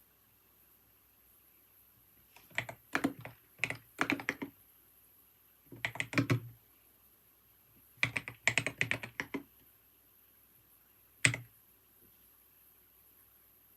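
Typing on a computer keyboard in three short bursts of quick keystrokes, then a single louder keystroke near the end.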